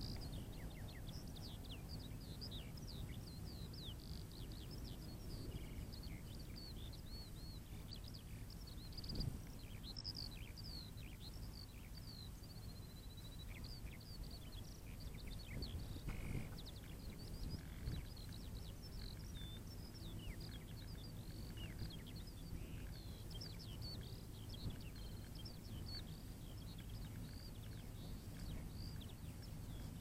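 Faint birdsong: many quick chirps and trills going on throughout, over a low rumble of wind on the microphone.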